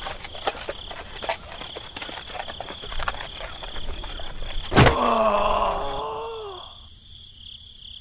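Farm ambience with a steady insect chirr and scattered small clicks and scuffs. About five seconds in comes a sharp knock, then a cow mooing in one long call that slowly falls in pitch and fades out.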